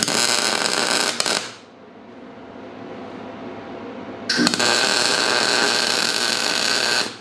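Electric welder arc crackling in two bursts on a steel race-car frame, a short one of about a second and a half, then after a pause a longer one of about three seconds; each starts and stops abruptly as the arc is struck and broken.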